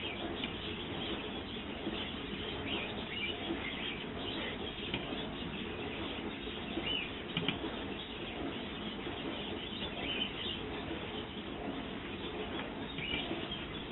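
Small garden birds chirping: short, scattered chirps over a steady outdoor hiss, with a couple of sharp ticks about halfway through.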